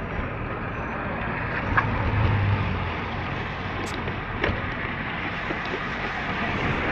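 Steady rushing noise on the microphone, with a few scattered clicks and a low thump about two seconds in.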